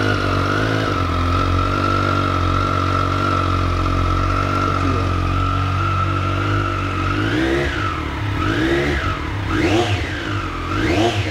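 Triumph Street Triple R's 765 cc three-cylinder engine idling steadily on its stock exhaust. About seven seconds in, it is revved in four quick throttle blips, each rising and falling in pitch.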